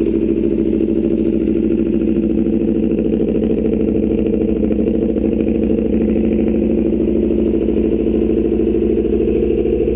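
Aprilia RSV4 RR's V4 engine idling steadily.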